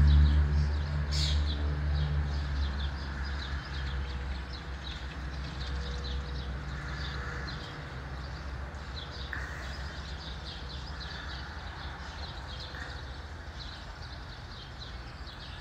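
Many short, high bird chirps repeating irregularly throughout, over a low rumble that is loudest at the start and fades over the first half.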